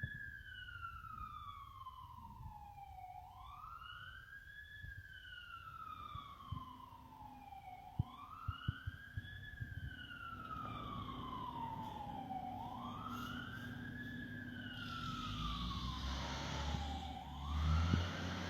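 Fire truck siren in a slow wail: each cycle climbs quickly and then sinks slowly, about every four and a half seconds, four times over. A low engine rumble builds near the end.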